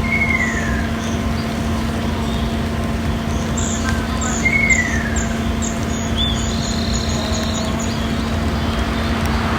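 Ruddy kingfisher giving its descending, trilling call twice, about four seconds apart, over a steady low drone. A run of short, high chirps sounds in the middle.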